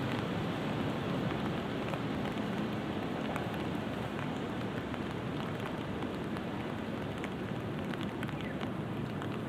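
Light rain falling steadily, with scattered drops ticking on an umbrella overhead.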